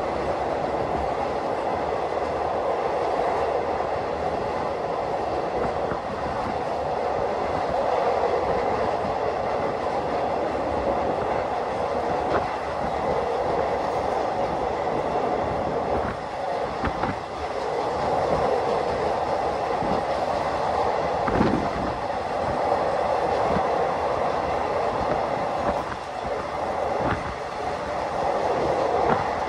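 Passenger train running at speed on an elevated track, heard from the open side of a carriage: a steady rumble of wheels on rails and rushing air. A few sharp clacks come through at irregular intervals.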